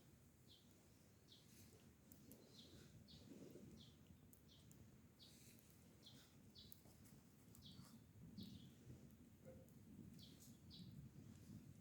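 A small bird repeating short, high chirps that drop in pitch, about one or two a second, faint over a low background rumble.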